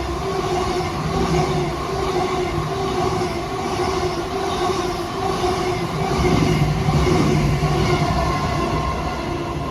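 Caledonian Sleeper train passing, with a steady hum of several tones over the rumble of wheels on rail. It is loudest about six to eight seconds in and starts to fade near the end.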